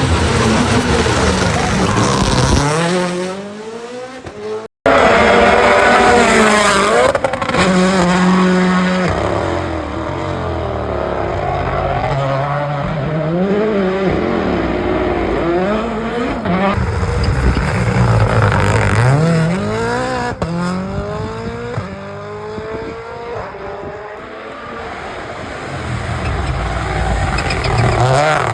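Rally cars at speed on a stage, engines revving up and dropping away through gear changes as they pass one after another. The sound cuts off sharply about five seconds in and resumes on another car.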